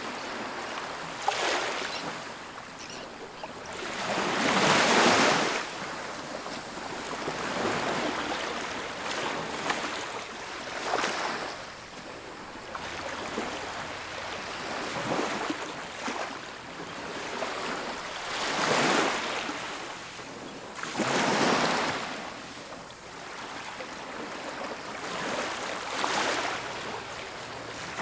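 Ocean waves breaking and washing up on a beach, each surge of surf swelling and fading every few seconds, the largest about five seconds in.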